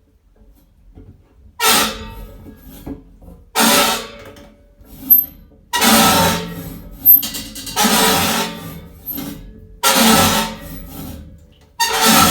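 Creaking from the internal baffle of a Toyota Sprinter / Corolla fuel tank: loud creaks repeated about every two seconds, six in all. This creaking baffle is a known fault of these cars.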